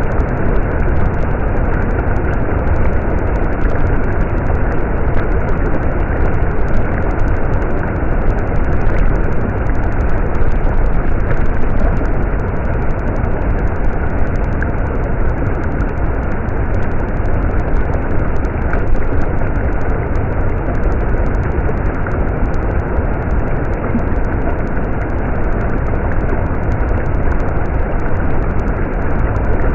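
Stream water running steadily, an even rushing noise that goes on without pause.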